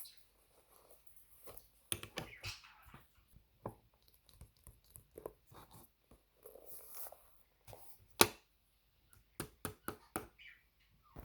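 Marker drawing on sketchbook paper: short soft scratchy strokes between scattered sharp taps and clicks, with one louder click about eight seconds in.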